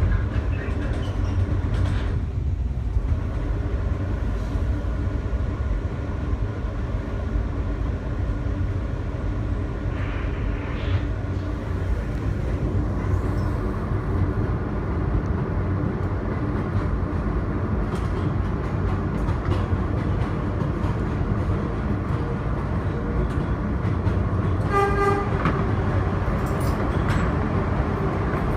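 R160B Siemens subway car running, heard from on board: a steady low rumble of wheels on rail with the steady hum of its traction motors. Near the end comes a short horn-like toot, lasting under a second.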